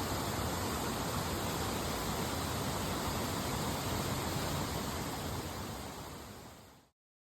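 Steady rushing of a mountain stream, fading out over the last couple of seconds and ending abruptly in silence.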